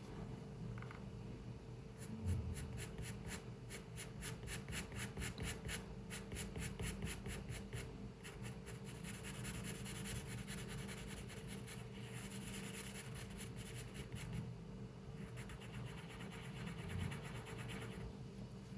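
Pencil scratching on paper in quick, evenly spaced back-and-forth strokes, as in hatching, then turning into a denser, continuous shading sound about halfway through.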